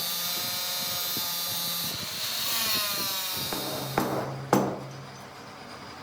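A workshop machine's motor whines steadily, then winds down, followed by two sharp knocks.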